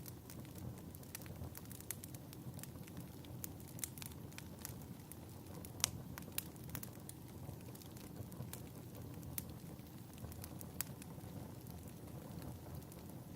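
Wood fire crackling in a fireplace: irregular sharp pops and snaps over a low, steady rush of burning, with one louder pop about six seconds in.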